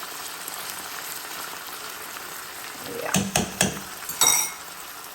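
Seasoning frying in hot oil in a pot, a steady sizzle that is just starting to catch and brown. About three seconds in, a metal utensil clinks against the pot a few times, and the loudest clink, a little before the end, rings briefly.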